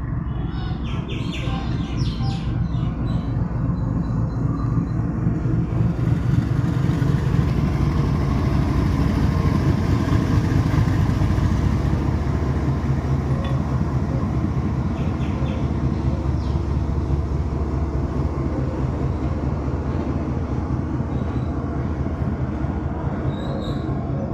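Goods train hauled by a WDG4G diesel locomotive rolling past with a continuous rumble, growing louder toward a peak about ten seconds in and then easing off. Birds chirp briefly over it in the first few seconds.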